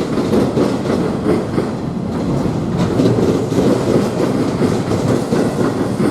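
Passing train running steadily on the rails, a continuous rumble with wheel clatter over the track.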